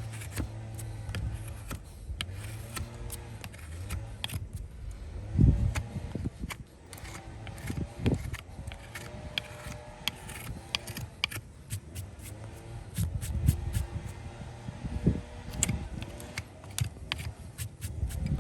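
Farrier work on a horse's hoof: many sharp clicks, scrapes and knocks of hand tools on hoof, with a few heavier thumps, over a steady low hum.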